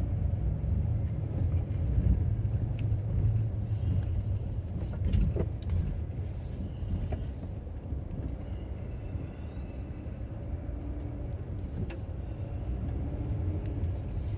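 A van driving slowly, heard from inside the cabin: a steady low rumble of engine and tyres, with a few faint knocks.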